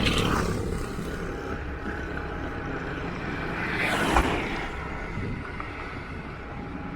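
Rented motorbike running while being ridden on the road, a steady engine and road rush, with a louder swell about four seconds in.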